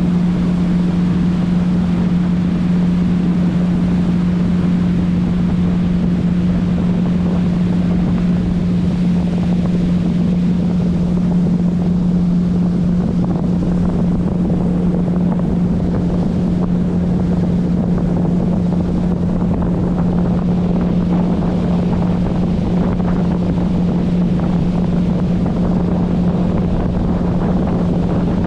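Motorboat engine running at a steady speed, a constant low hum over the rush of wind and water.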